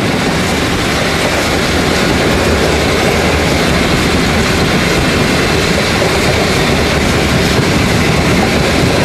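Steam-hauled passenger train running along the track: a steady, loud rumble of wheels on rails.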